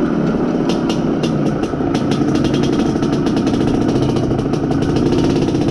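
IZh Planeta Sport's single-cylinder two-stroke engine running steadily under way while being broken in, with many short clicks over the engine sound.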